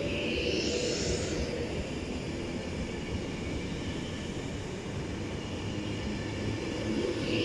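Class 390 Pendolino electric train running past along the platform: a steady rumble of wheels on rail, with a brief high hiss about half a second in and again near the end.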